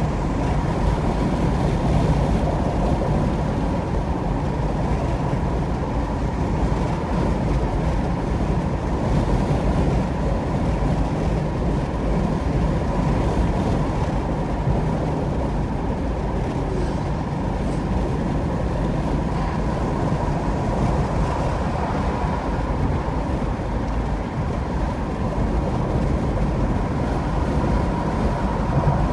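Steady road and tyre noise of a car driving at highway speed, an even rumble with no changes.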